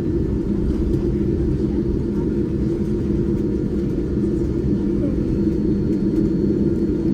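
Steady low rumble of a Boeing 787-9's engines and airflow heard from inside the passenger cabin, constant in level throughout.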